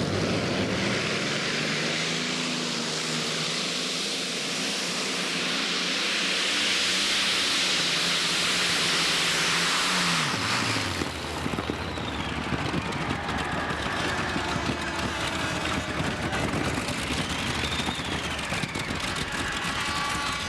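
Pulling tractor's engine running flat out under load during a pull. About ten seconds in it is throttled off and the pitch falls away, leaving a lower, uneven running sound with slow rises and falls in pitch.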